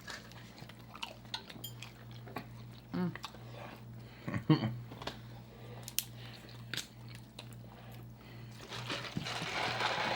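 Close-miked eating sounds: chewing and biting with scattered small clicks of utensils and dishes, over a steady low hum. A denser rustling, chewing noise builds near the end.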